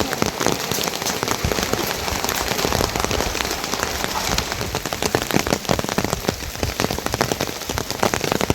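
Steady rain falling, a dense, irregular stream of drops striking a surface.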